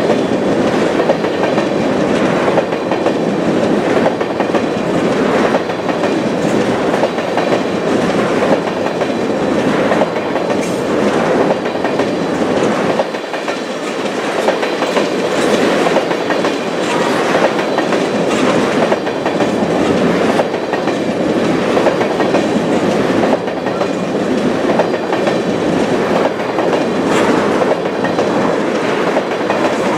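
Freight train of tank cars rolling past at a steady speed: a continuous rumble and rattle of steel wheels on the rails, with wheels clicking over the rail joints.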